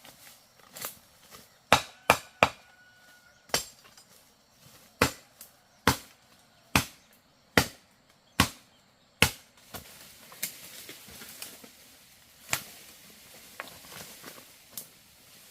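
Chopping with a blade into wood: about ten sharp strokes roughly a second apart, then a few fainter, more widely spaced hits after about ten seconds.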